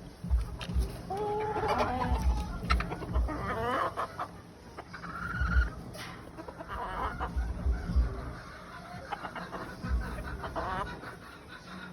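Several game birds clucking and calling in short, pitched calls that overlap at irregular intervals, with dull low thumps now and then.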